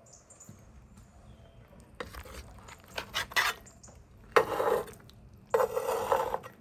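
Cutlery and dishes during a meal: a few light clinks and knocks, then two louder, longer scraping sounds in the second half.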